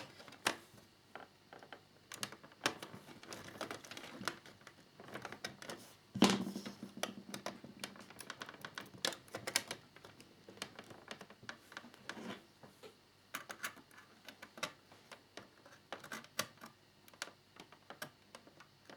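Irregular small clicks and taps of plastic model parts being handled and pressed together while a keel fairing is fitted to a scale motorcycle model, with one louder knock about six seconds in.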